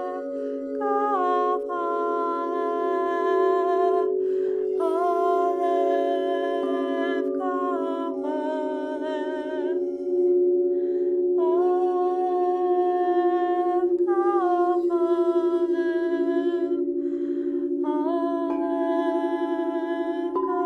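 Singing bowls ringing in a steady low drone while a woman's voice tones long held, wordless notes over them, stepping between pitches and pausing for breath every few seconds.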